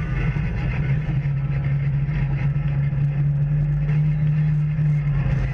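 Off-road vehicle engine running at a steady speed, a loud, even drone that holds one pitch while the vehicle moves along the trail.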